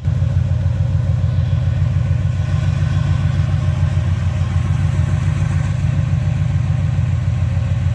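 1971 Chevrolet C10 pickup's engine running at a steady idle, its even low firing pulse unchanging.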